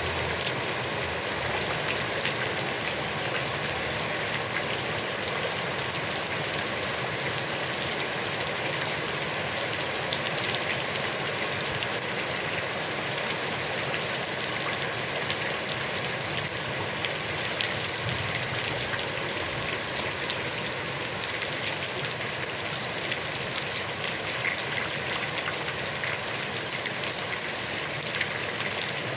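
Heavy rain falling steadily onto a pond's water, a dense even hiss full of tiny drop splashes.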